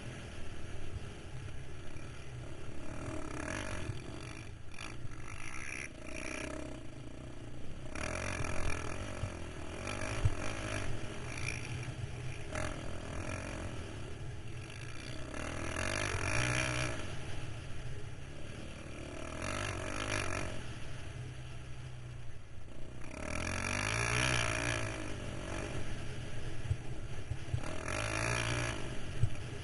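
KTM 525 XC quad's single-cylinder four-stroke engine running under way, its pitch rising and falling as the throttle is opened and eased off, with louder surges every few seconds.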